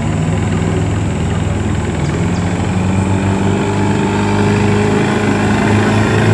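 Boat engine running steadily, its note and loudness rising gradually as it speeds up.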